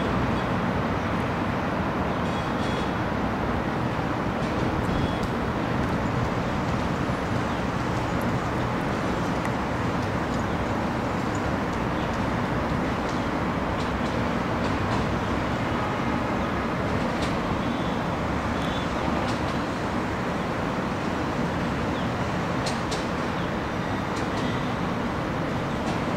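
Passenger train's coaches rolling along the track: a steady, continuous rumble.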